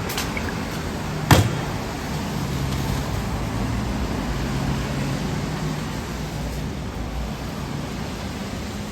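A single sharp knock about a second in, over a steady background rumble with a low hum.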